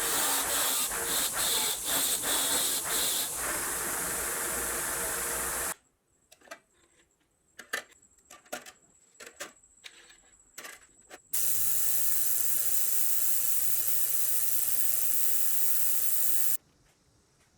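Compressed-air tool hissing in two long spells. The first is broken by quick stop-start pulses, as of a trigger being pulsed; the second has a steady low hum under it and cuts off suddenly. Between them are a few seconds of light clicks and taps.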